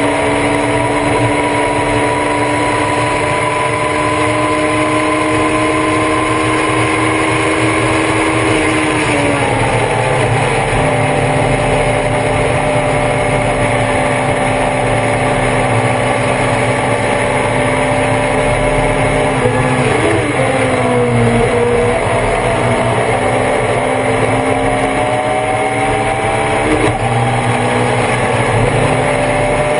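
Thunder Roadster race car engine heard from on board at high revs under racing load, with steady wind and road noise. The engine pitch drops sharply about nine seconds in, dips again around twenty seconds, then climbs steadily.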